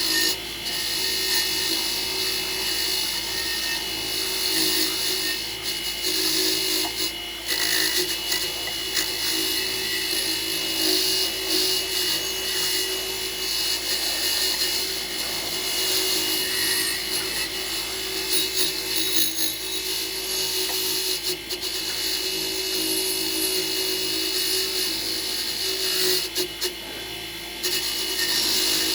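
A small handheld power tool running steadily with a high hiss and a constant whine, briefly easing off about seven seconds in and again near the end.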